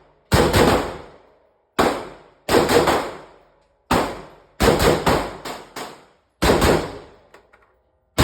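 AR-15 rifle fired in quick strings of one to six shots, about fifteen shots in all, each crack trailing off in an echo. A few light clicks come near the end.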